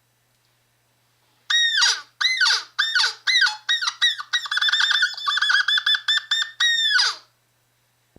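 High-pitched squeaky calls that start after a second and a half of silence: a few single notes that hold and then drop sharply in pitch, then a fast run of short chirping notes, ending in a longer call that slides down.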